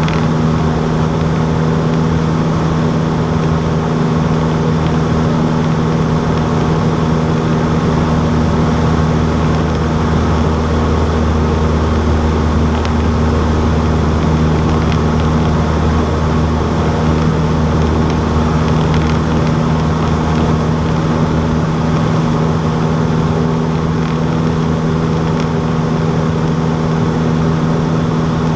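Cessna 152's four-cylinder Lycoming O-235 engine and propeller holding a steady drone, with an even, unchanging pitch.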